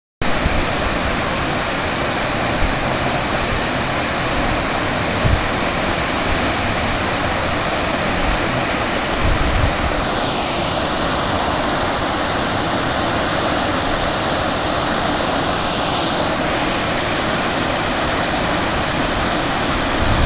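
Flood-swollen Yuba River rushing steadily, a loud unbroken wash of water noise.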